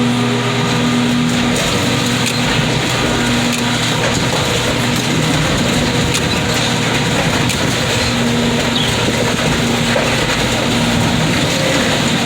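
Hydraulic car crusher running steadily, its power unit humming while the press crushes a wrecked car, with scattered cracks and crunches from the car body.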